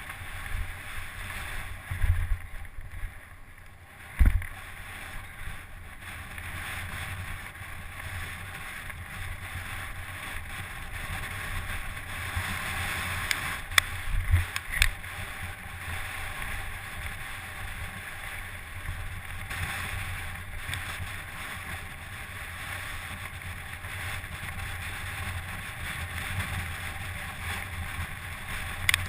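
Steady wind rushing over the microphone with a low rumble underneath, broken by a few sharp knocks, twice near the start and twice around the middle.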